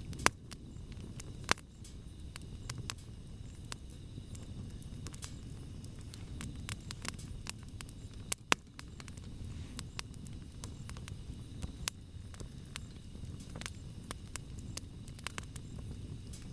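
Wood campfire crackling, with a steady low rush of burning and frequent small snaps, a few sharper pops standing out.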